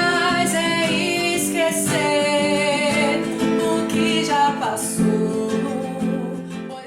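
A song: a singer over strummed acoustic guitar, fading out near the end.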